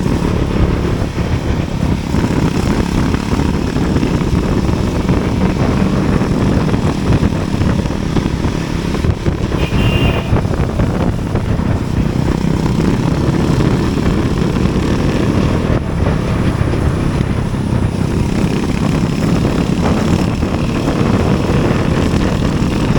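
Steady, loud rumble of a moving vehicle on the road, engine and road noise with wind, and a brief high tone about ten seconds in.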